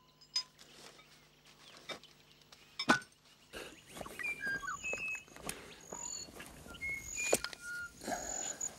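Outdoor bush ambience with birds calling: short whistled and chirping notes, some gliding in pitch, begin about three and a half seconds in, along with a few scattered knocks. Before that it is nearly quiet, apart from a few clicks and one sharp click.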